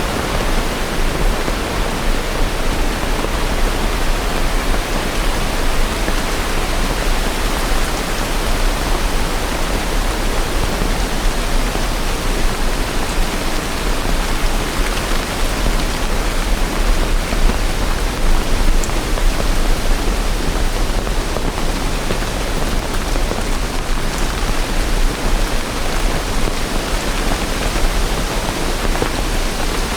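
Steady rain, a dense, even hiss that holds at the same level throughout, with no thunder.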